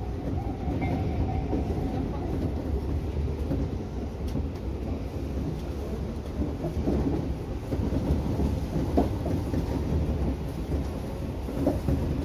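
Tobu Urban Park Line electric commuter train running along the track, a steady rumble of wheels on rails heard from the driver's cab, with a few sharper knocks from the wheels on the track.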